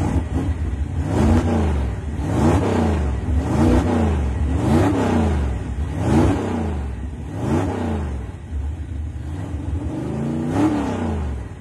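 Racing car engine revving up and falling back about eight times, roughly once a second, over a steady low engine drone.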